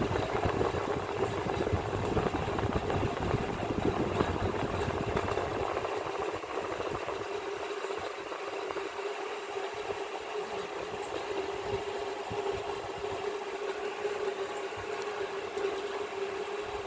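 A steady mechanical hum with a rattling noise under it, like a running motor. A low rumble beneath it drops away about six seconds in.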